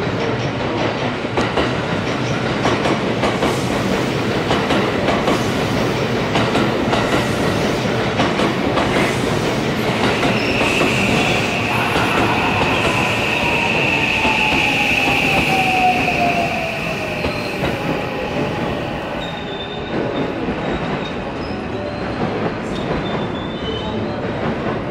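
Electric commuter train running along a station platform with wheels clattering over rail joints. A high, steady wheel squeal sounds from about ten to sixteen seconds in, while the motor whine falls in pitch as the train slows, and the noise eases near the end.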